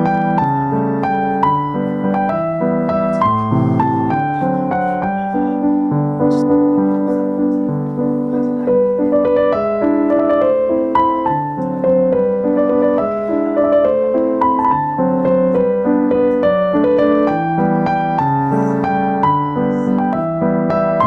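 Background piano music, a calm melody over soft chords.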